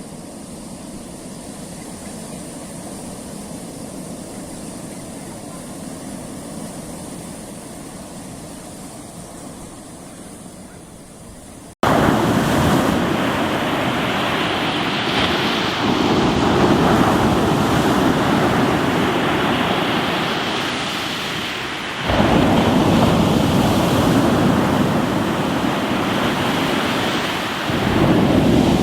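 Ocean waves washing onto a rocky shore. For the first twelve seconds it is quieter, with a faint steady high tone. Then it cuts suddenly to loud surf that swells again about every six seconds as waves come in.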